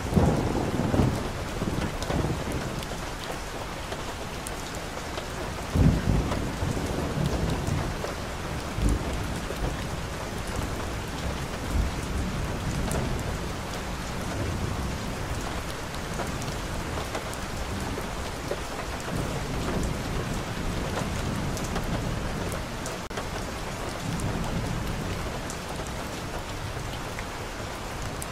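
Steady rain falling on a wet street and on leaves, a constant hiss. Brief low rumbles rise out of it near the start and again about 6, 9 and 12 seconds in.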